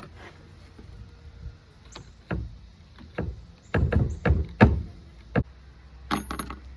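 Irregular knocks, clicks and rattles of hand work on a homemade filter box's latch mechanism, with the loudest cluster about four seconds in.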